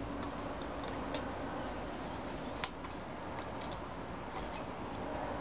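Small scattered clicks and taps of an Allen key and screws being worked on the metal receiver of a Tippmann A-5 paintball marker, with one sharper click about two and a half seconds in, over a low steady hum.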